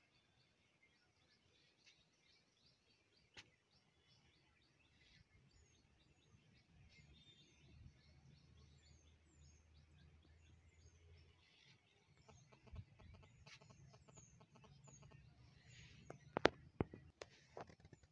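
Faint outdoor ambience of birds calling: many short, high, falling chirps repeat throughout, with a low rumble in the middle and a few sharp clicks near the end.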